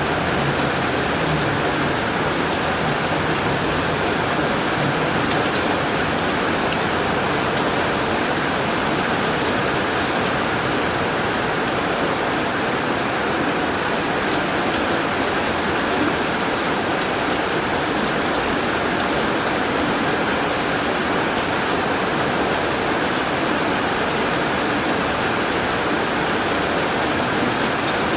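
Heavy rain drumming steadily on a tin roof, a dense even hiss with sharp drop taps on the metal.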